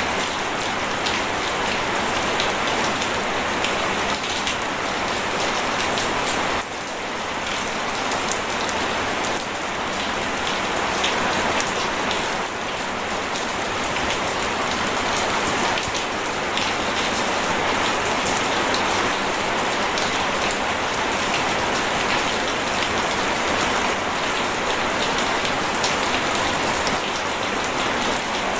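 Steady heavy rain: a dense, even hiss of many drops pattering on surfaces, dipping slightly in loudness about seven seconds in. No thunder.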